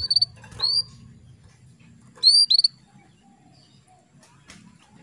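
Female domestic canary giving short, high call notes that sweep up and then hold: one at the start, one just under a second in, and a quick pair a little past two seconds. A female's calling of this kind stirs male canaries into breeding condition and song.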